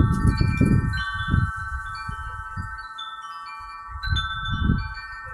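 Metal wind chimes ringing in a light breeze, several tones sustained together with fresh strikes here and there. Low rumbling gusts of wind on the microphone swell in the first second or so and again near the end.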